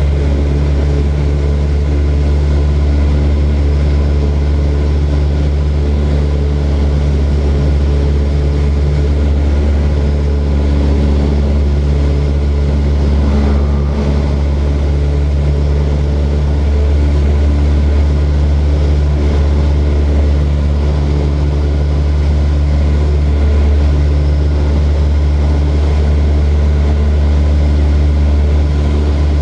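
Propeller airplane engine running steadily, a loud, even drone with a low hum and steady overtones that does not change in pitch.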